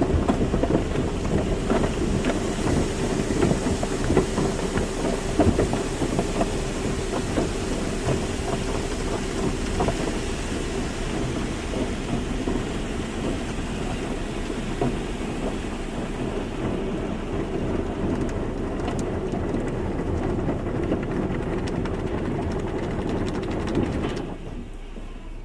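Automatic car wash running: dense water spray pattering on a car with machinery rumbling underneath, and a faint steady hum in the first part. The noise drops off sharply near the end.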